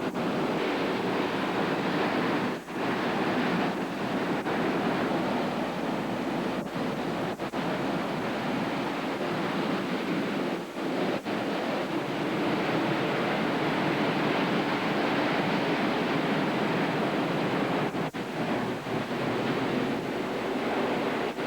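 Hurricane Iniki's wind and surf: a steady roar of noise, with wind buffeting the camcorder microphone. It dips briefly about six times.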